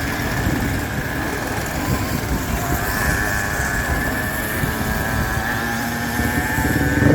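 Racing motorcycle engines running, with a steady high engine note from about three seconds in and a brief louder swell near the end.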